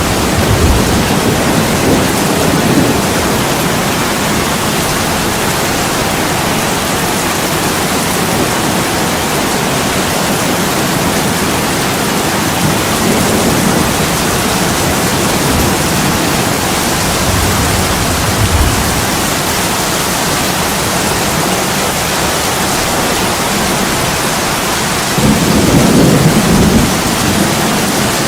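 Steady heavy rain pouring on a window, with low rolls of thunder rumbling now and then, the loudest near the end.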